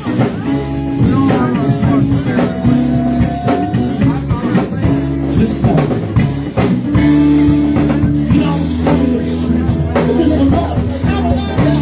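Live rock band playing, a drum kit keeping the beat under sustained instrument notes, with singing.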